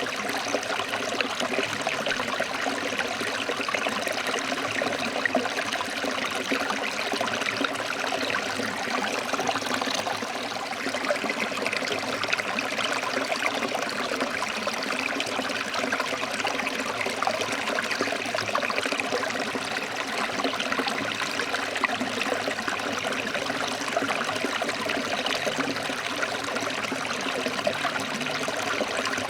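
Forest stream flowing over rocks: a steady, dense babble and splash of running water.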